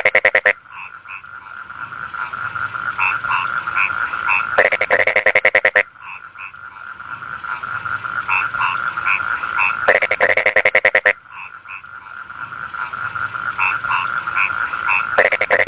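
Rice-field frogs calling. A loud, rattling croak of rapid pulses lasting about a second comes three times, roughly five seconds apart, over a steady droning chorus and scattered short calls.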